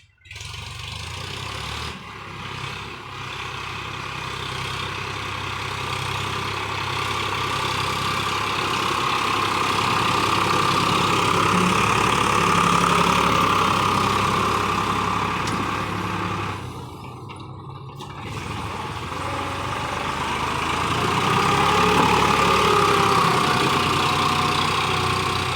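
Tractor's diesel engine running, growing louder over the first several seconds, easing off briefly about two-thirds of the way through, then picking up again.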